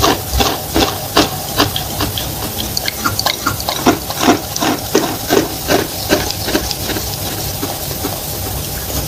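Close-up chewing of wet chalk with clay paste: short wet crunches about two to three a second, fainter and smaller toward the end.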